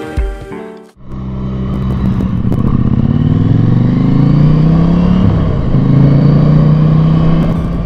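Motorcycle engine accelerating: the pitch climbs, drops at a gear change about four seconds in, then rises and holds.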